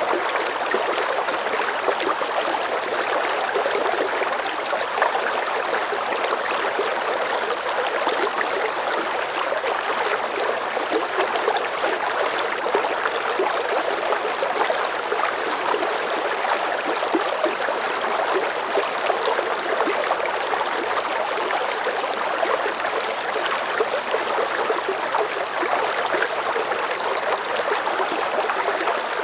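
Water running and babbling steadily, like a small stream over stones, with a fine bubbling texture.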